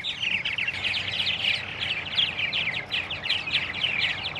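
Purple martins chattering: a dense, steady stream of short, overlapping high chirps from many birds.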